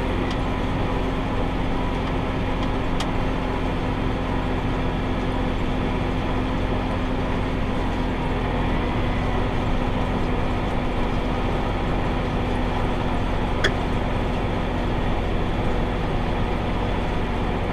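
Tractor engine running steadily while pulling a round hay baler: a constant mechanical drone with a steady hum, and a couple of faint clicks.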